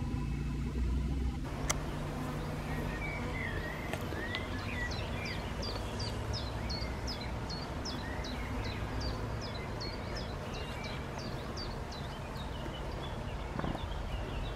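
A small songbird singing a long run of short high notes, each falling in pitch, about two to three a second, over a steady low background rumble.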